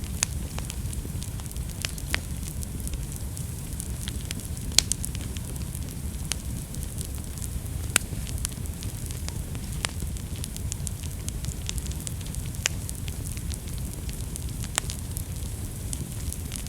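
Wood fire burning in a fireplace: a steady low rumble and hiss of the flames with scattered sharp crackles and pops, the loudest pop about five seconds in and another about eight seconds in.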